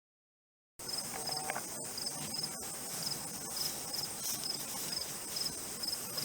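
Insects chirping outdoors: a steady high trill with short chirps repeating about three times a second, starting after a moment of silence.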